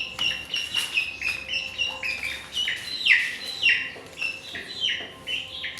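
Small birds chirping busily: many short, high calls in quick succession, some falling in pitch.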